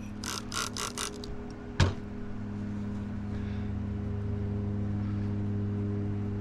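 Five quick hisses of a trigger sprayer misting spray wax onto a car mirror. A sharp click follows near two seconds in, then a steady low hum.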